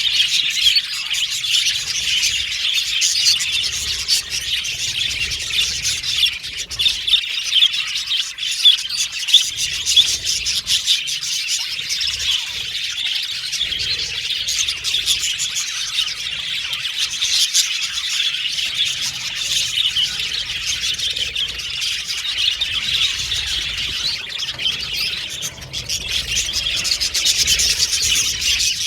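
A flock of budgerigars chattering and chirping continuously, many birds calling over one another with short warbles and squawks.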